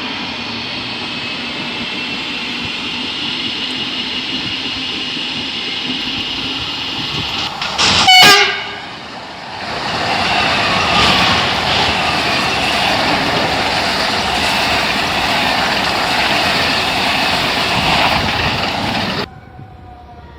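Train running past the trackside: steady running noise with faint steady tones, then a short, loud horn blast about eight seconds in. Louder rushing rail noise follows as it goes by, and cuts off suddenly near the end.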